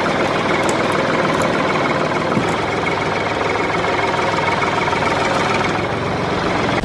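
Steady engine-idling sound of a vehicle, running evenly with no change in pitch or level.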